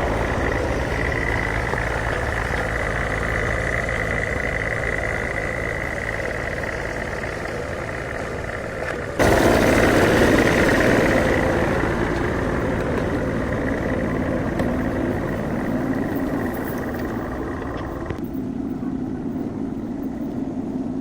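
Steady running noise of a motor vehicle, changing abruptly about nine seconds in and again about eighteen seconds in.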